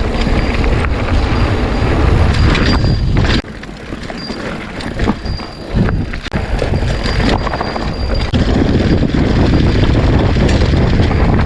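Mountain bike being ridden: wind buffeting the camera microphone, along with rumble and rattling clicks from the bike. It eases off for about three seconds from about three and a half seconds in, then picks up again.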